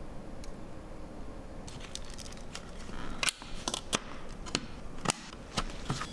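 A run of a dozen or so sharp clicks and snaps, starting about two seconds in, over a steady low background.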